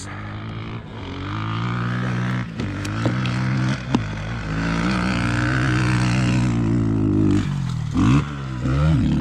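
Dirt bike engine running at a fairly steady pitch for several seconds, with quick throttle blips revving up and down near the end.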